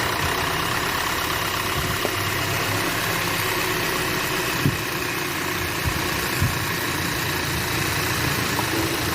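Audi A3 car engine idling steadily, with a few light ticks about halfway through.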